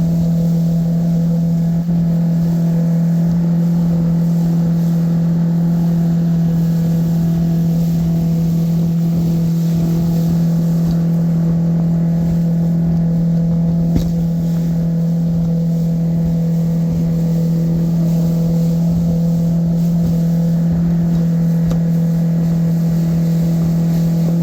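Boat motor running at a steady speed, a loud constant hum with an unchanging pitch, heard from aboard the boat, with a single short click about halfway through.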